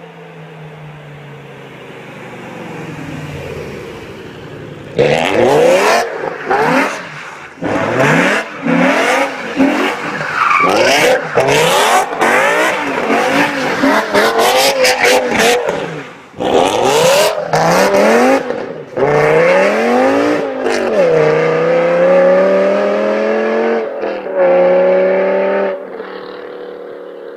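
BMW E60 M5's V10, enlarged to 5.8 litres and breathing through an aftermarket exhaust, revving hard up and down again and again while the rear tires squeal through donuts. Near the end the engine holds a steadier note and then eases off.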